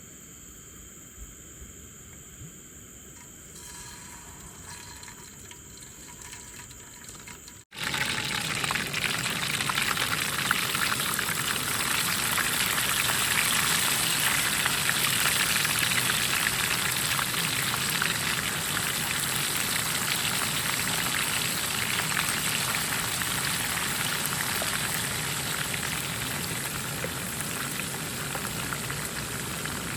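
Pot of bamboo shoots and small fish cooking hard, a loud, dense crackling hiss of boiling. Before it, a quieter steady hiss ends in an abrupt cut about eight seconds in.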